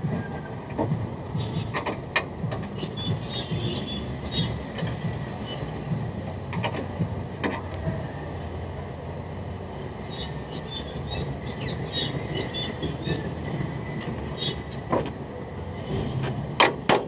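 A vehicle engine running steadily, with scattered metallic clicks and knocks over it.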